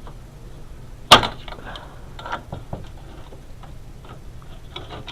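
Hands removing a part from inside a desktop computer case: one loud sharp click about a second in, then lighter clicks and rattles of the part being handled.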